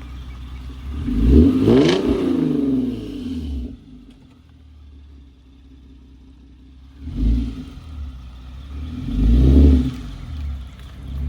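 Car engine being revved: a rev that rises and falls about a second in, then, after a quieter idle, a short blip and another rev near the end.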